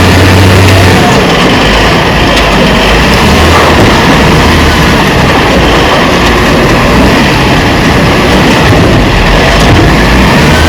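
Diesel engine of heavy earth-moving machinery running loudly and steadily, its low hum clearest in the first second and again near the end.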